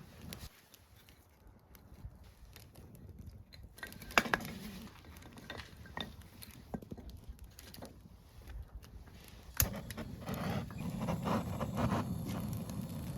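Firewood burning with irregular crackling and sharp pops, two of them loud, about four and nine and a half seconds in. In the last few seconds the crackling grows louder and denser over a low rushing rumble.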